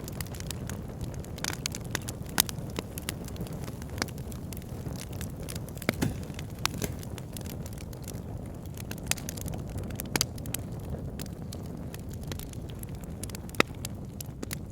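Wood fire in a log burner crackling: a steady low rumble of burning with irregular sharp pops and snaps from the logs, a few louder ones scattered through.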